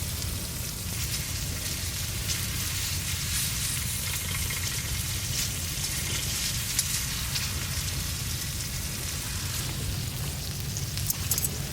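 Food sizzling steadily on a hot iron griddle plate, with a few sharp crackles near the end over a low, steady rumble.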